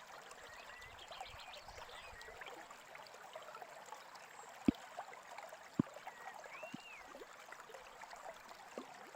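Small brook flowing steadily with gurgling and trickling water, with a couple of brief water plops about halfway through. Faint bird calls chirp now and then, one rising and falling call near the end.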